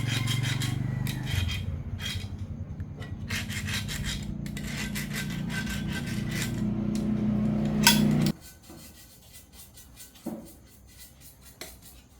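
A motor-driven tool running with a steady hum and a rough grinding, rubbing sound against metal, then switched off abruptly about eight seconds in.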